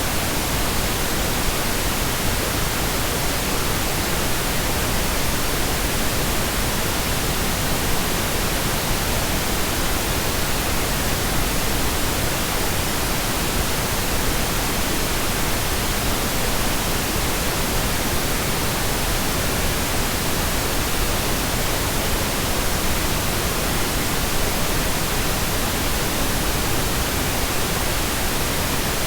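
Synthetic pink noise: a steady, even hiss spread across all frequencies, with no changes.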